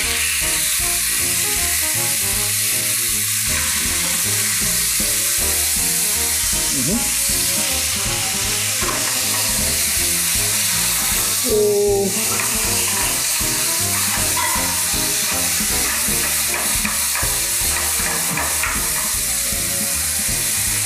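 Chicken fillets frying in a little oil in a frying pan: a loud, steady sizzle that starts suddenly as they go into the hot pan.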